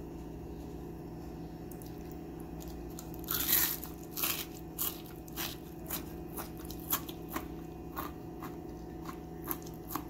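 A bite into a crisp panko-crusted fried calamari ring about three seconds in, then crunchy chewing, a crunch about every half second; the coating is very crunchy. A steady low hum underneath.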